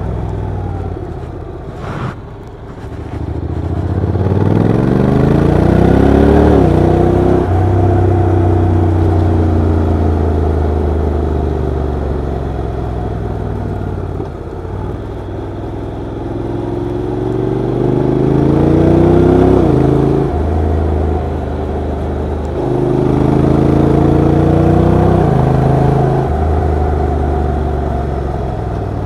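Honda NC750X's parallel-twin engine and exhaust pulling under acceleration: the revs climb three times, each ending in a sudden drop at an upshift, with steadier cruising between.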